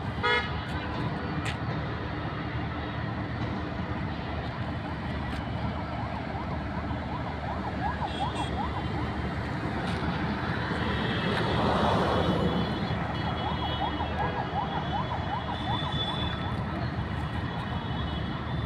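Steady road-traffic noise with an emergency-vehicle siren yelping, its pitch sweeping rapidly up and down in two stretches. A vehicle swells louder past the middle.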